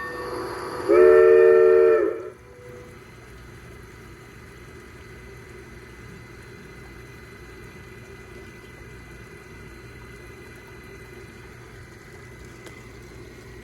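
Piko G scale Camelback model locomotive's digital sound system sounding a steam whistle: one loud, chord-like blast about a second long, starting about a second in. A fainter steady running noise follows.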